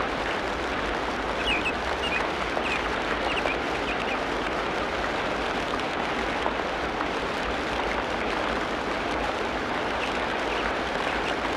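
Tropical rainforest ambience: a steady hiss of rain, with a few short high chirps about one to three seconds in and again near the end.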